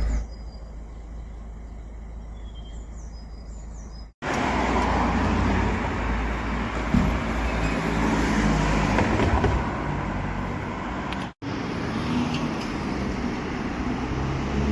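Road traffic noise, a steady rumble of passing vehicles, in three short clips joined by abrupt cuts: quieter for the first few seconds, then louder.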